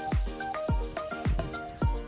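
Background music with a steady electronic beat: a deep kick drum about three or four times a second under short, bright melodic notes.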